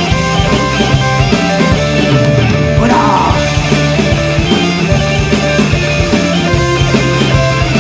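Live punk rock band playing an instrumental passage between sung lines: electric guitar, bass and drums, loud and continuous.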